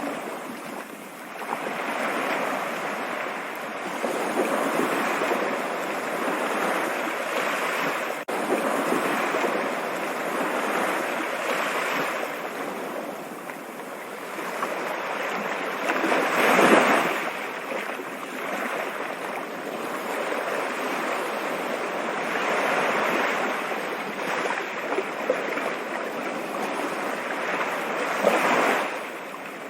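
Flowing water rushing continuously, swelling and easing in level, with its strongest surge about halfway through and another near the end.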